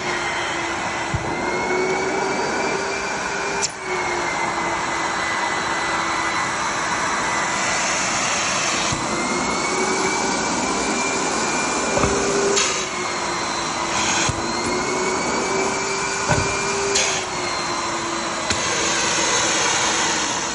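High-airflow vacuum lifter's blower running with a steady rush and whine. The whine dips in pitch and slowly climbs back several times, with a few sharp knocks along the way.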